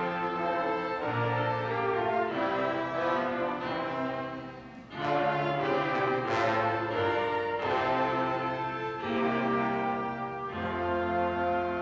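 Instrumental music from a small ensemble of bowed strings and brass playing held chords that change step by step, with a brief drop in level about five seconds in before the full ensemble comes back in.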